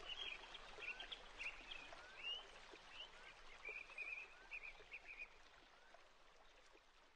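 Small birds chirping and twittering over a steady hiss, in short bursts with little rising notes. The chirps stop a little past halfway through and the hiss fades out near the end.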